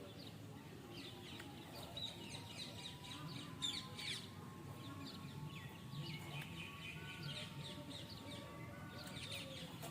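Budgerigar chattering: a faint, continuous run of quick, short chirps and warbles.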